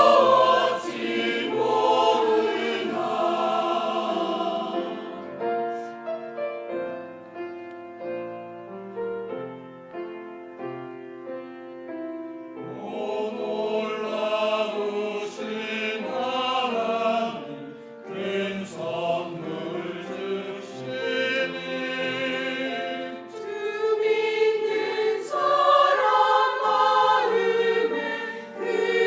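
Church choir singing a Christmas cantata, with a softer, quieter passage in the middle before the full choir comes back in.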